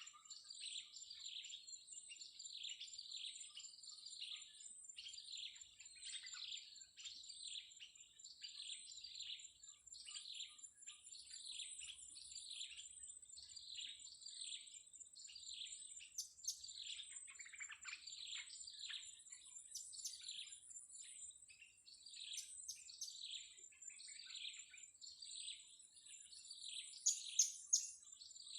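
Blue-crowned hanging parrot (serindit) calling: a short, high, falling chirp repeated about once a second. A steady high-pitched insect whine runs underneath, with a few sharp clicks near the end.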